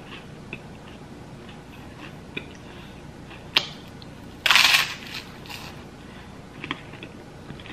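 A person biting and chewing crisp toast close to the microphone: small crunching clicks throughout, a sharp crack about three and a half seconds in, then a loud crunch of a bite about a second later.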